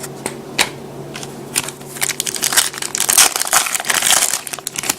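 A trading-card pack wrapper being torn open and crinkled. A few light taps and clicks of card handling come first, then a dense crinkle of the wrapper starts about two seconds in and runs for nearly three seconds.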